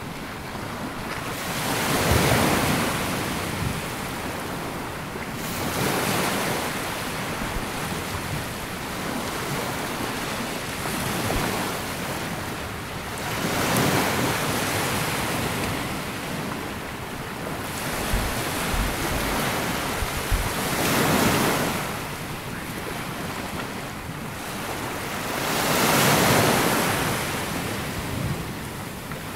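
Sea waves breaking and washing up a sandy beach, the surf swelling and falling away every few seconds. Some wind buffets the microphone.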